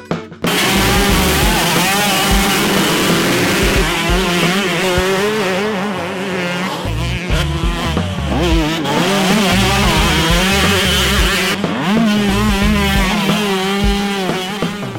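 Two-stroke motocross bikes racing, several engines revving up and falling back over one another. The sound cuts in suddenly about half a second in.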